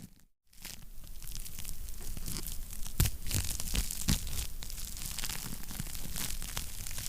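Wood fire crackling, with dense irregular snaps over a low rumble and a couple of louder pops about three and four seconds in. The sound drops out completely for a moment just after the start.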